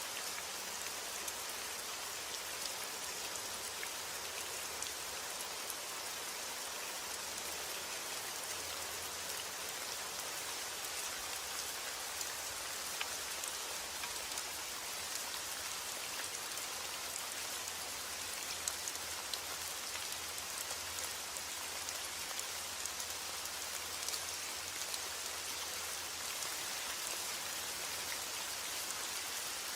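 Steady rain falling, a constant hiss with countless individual drops ticking through it.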